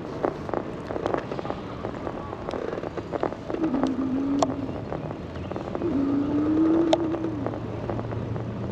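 Riding noise from an electric bike: wind and tyre noise with scattered clicks, and a low hum that swells and fades every couple of seconds.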